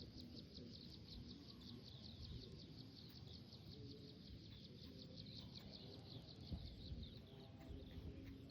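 Quiet outdoor ambience: a high chirp repeated steadily about five times a second, over a faint low rumble.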